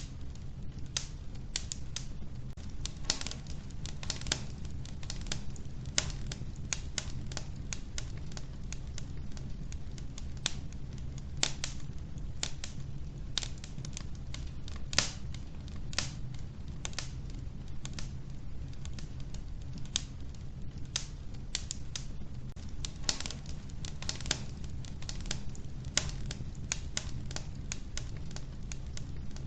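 Wood fire burning in a wood-burning stove: logs crackling with irregular sharp pops, several a second, over a steady low rumble of the flames.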